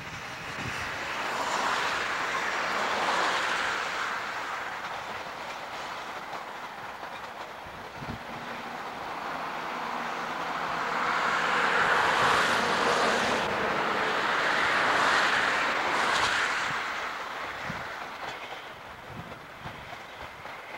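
Durango & Silverton narrow-gauge train, pulled by K-37 steam locomotive #497, rolling past with its wheels clattering on the rails. The rumble swells twice, louder the second time, then fades near the end.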